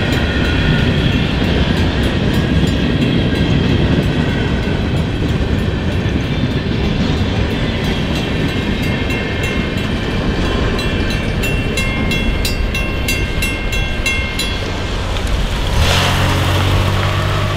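Freight cars rolling slowly past on jointed track: a steady rumble of steel wheels on rail, with thin steady squeals from wheel flanges grinding on the curve. About a second and a half before the end, a car drives by close up and its engine hum joins in.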